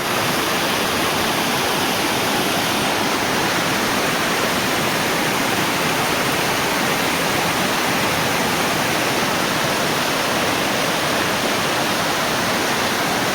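Steady, loud rushing of water, unbroken and even in level.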